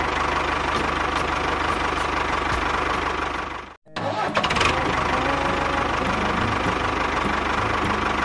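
Small engine running steadily with a rapid, even firing beat. It drops out for an instant a little under four seconds in, then carries on.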